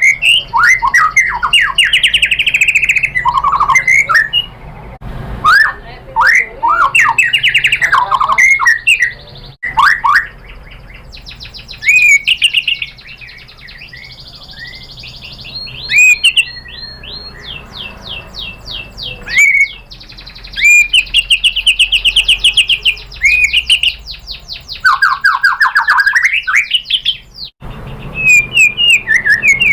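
White-rumped shama (murai batu) singing a long, varied song: clear sliding whistles alternating with fast rattling trills of repeated notes, in loud phrases separated by short pauses.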